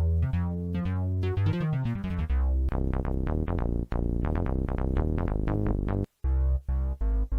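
Yamaha PSR-E373 portable keyboard playing a synthesized passage with a steady bass and quick repeated notes; it breaks off about six seconds in and a different pattern starts.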